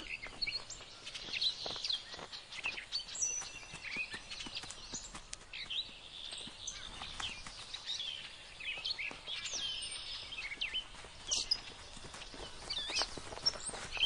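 Birds calling: a scatter of short, high chirps and whistled glides over a faint outdoor background.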